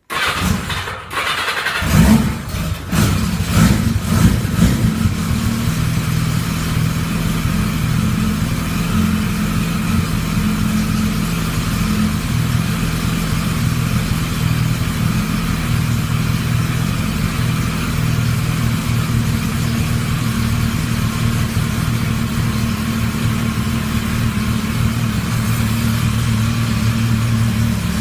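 Cold 1985 Yamaha XJ700N's air-cooled inline-four cranking on the electric starter, catching about two seconds in with a few uneven revs, then settling into steady running. The bike is known as a hard starter when cold.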